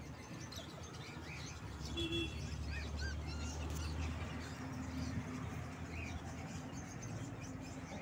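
Small caged birds chirping: scattered short, high chirps and quick little pitch slides throughout, over a low steady hum.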